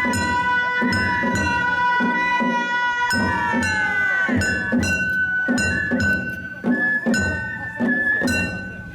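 Festival float music (hayashi): bamboo flutes play long held notes over drum strokes, about two a second. The flutes move to new notes about four seconds in.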